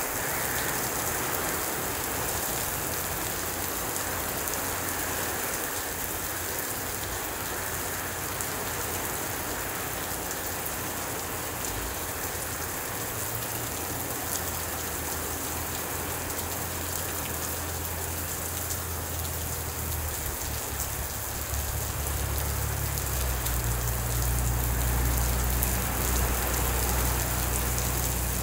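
Heavy rain falling steadily: a dense, even hiss of rain on pavement and trees, with a low rumble building underneath in the last few seconds.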